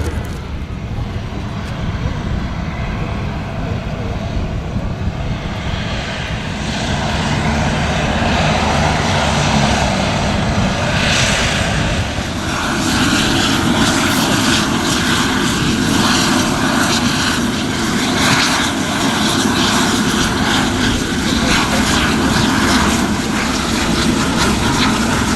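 Aircraft engine running steadily, growing louder about 7 seconds in and again about 12 seconds in, then holding a steady drone.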